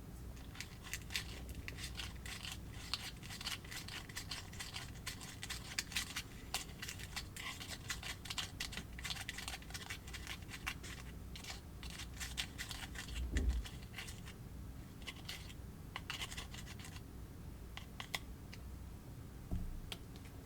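Close, quick scratching and scraping of small plastic pieces being handled while a Kracie DIY candy kit is made, with a soft thump about thirteen seconds in.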